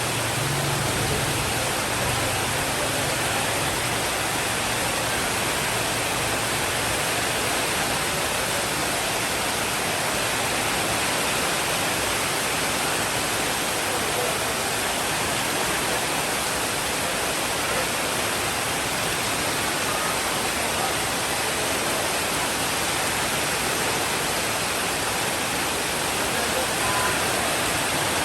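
Steady, even rainfall, with a faint low rumble that fades over the first several seconds.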